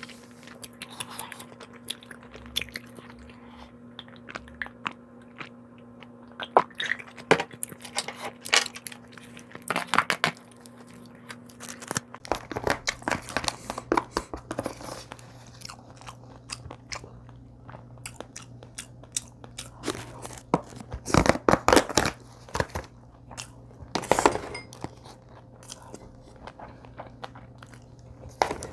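Close-up eating sounds: irregular bites and chewing with crisp crunches, in several bursts.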